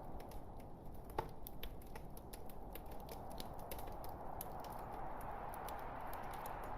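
Log fire crackling: irregular sharp pops and snaps over a steady low hiss of burning wood, with one louder pop about a second in.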